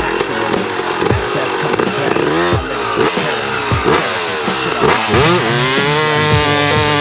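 Suzuki RM 250 two-stroke motocross bike engine revving hard, its pitch dropping and climbing again several times as the throttle is chopped and reopened through gear changes, then rising steadily near the end.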